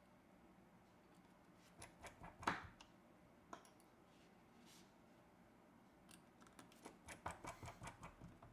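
Small tools and phone parts being handled during reassembly: faint, scattered clicks and taps. There are a few around two seconds in and a quick run of them near the end.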